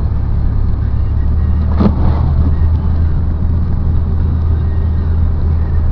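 Engine and road noise of a moving vehicle heard from inside the cab: a steady low drone, with one brief sharp sound about two seconds in.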